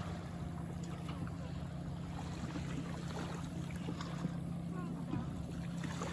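A steady low motor hum, with faint voices in the background.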